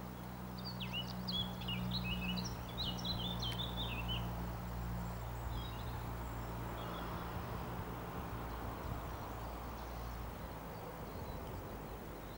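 A songbird sings one quick phrase of rapid chirping notes lasting about three and a half seconds, with a fainter snatch of song a few seconds later. Underneath is a steady outdoor hiss and a low steady hum.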